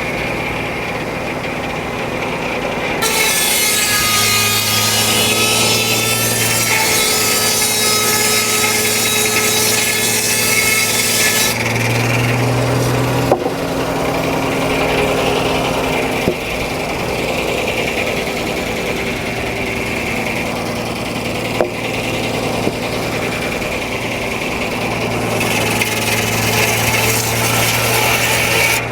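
Frick No. 1 sawmill's circular head saw cutting a log: a loud, high ringing whine as the blade runs through the wood from about three seconds in for roughly eight seconds, and another cut starting near the end. The engine powering the mill drones steadily underneath, with a few short knocks between cuts.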